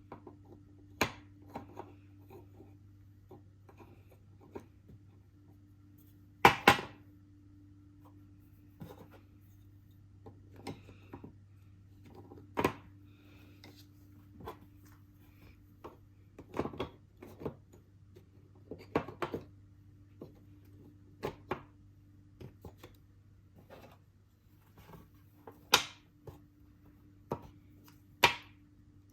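Wooden puzzle pieces clacking and knocking as they are handled and set into the wooden board: irregular sharp clicks, the loudest about six seconds in and twice near the end, over a steady low hum.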